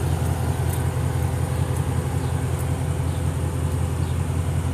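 A 2011 Dodge Durango's 5.7-litre Hemi V8 idling steadily, its exhaust running through Flowmaster Super 44 mufflers with the resonator deleted, giving a deep, even exhaust note.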